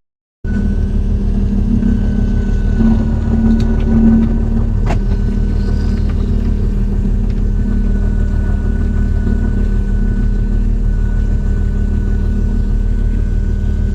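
Fishing boat's engine running steadily with a low hum, a thin steady whine above it and a few faint clicks about four to five seconds in.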